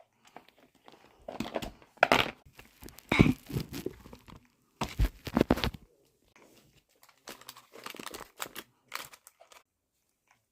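Packaging being handled and opened, crinkling and tearing in irregular bursts, the loudest around the middle, dying away about a second before the end.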